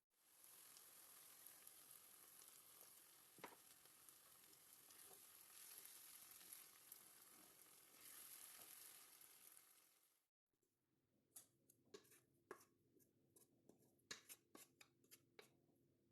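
Food sizzling in a hot pan, a steady hiss. It cuts off abruptly about ten seconds in, followed by a run of light clicks and taps.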